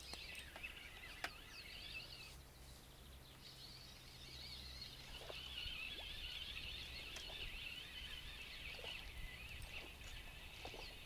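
Songbirds singing, a busy, rapid twittering and warbling chorus, over a faint steady low hum. There is a single sharp click about a second in.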